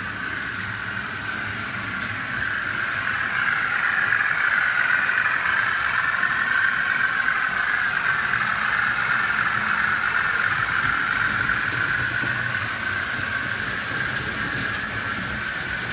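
OO gauge model train running along the track with a steady whirring rumble. It grows louder about three seconds in as it passes close, then slowly fades.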